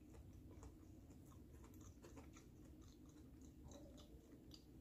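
Faint chewing of a fried hash brown, with many small, scattered crunches.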